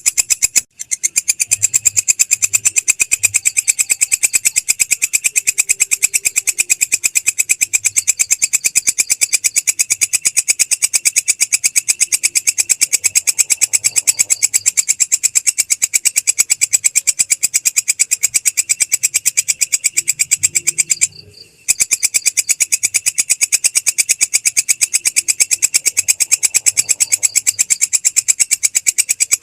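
Belalang krek insect calling: a loud, high, fast pulsing trill of evenly spaced chirps, several a second, that runs on without change apart from two momentary breaks, about a second in and about two-thirds of the way through.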